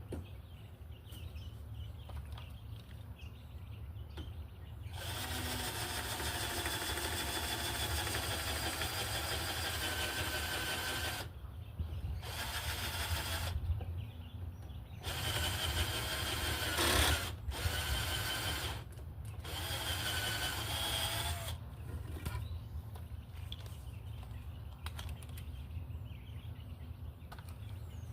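Electric power drill running in several bursts: one long run of about six seconds, then four shorter runs with brief pauses between them, one speeding up sharply near its end.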